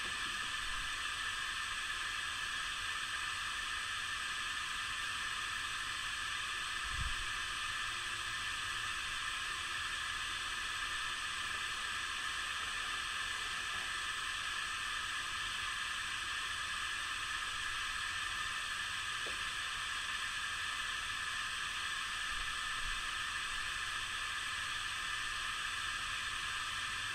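Steady, even hiss with no wind or animal sounds: the recording's own noise floor in a windless, silent snowfall. A single soft low thump about seven seconds in.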